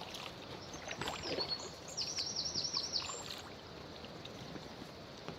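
A small songbird sings a quick run of about six repeated high notes about two seconds in, over a steady background hiss of moving river water.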